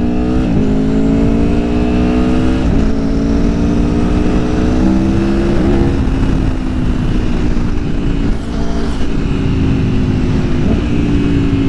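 Aprilia Tuono V4 Factory's V4 engine accelerating hard under full throttle. Its pitch climbs and then drops back at each of about five quick-shifter upshifts, with wind rushing under it.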